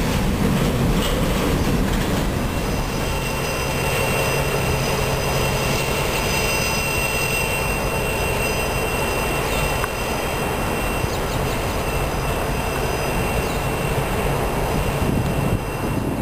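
An empty coal train's steel hopper cars rolling past in a steady rumble, with a thin, high, steady squeal of the wheels on the rails through the middle. The sound drops away right at the end.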